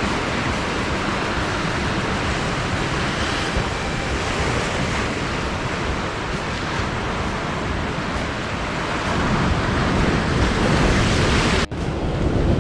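Ocean surf surging and breaking against a rocky shore, with wind buffeting the microphone; the low rumble grows heavier near the end, broken by a momentary cut-out just before the end.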